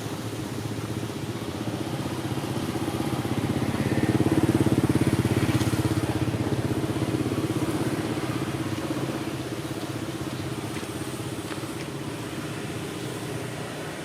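An engine running with a fast, even pulse, growing louder to its peak about four to five seconds in and then easing off.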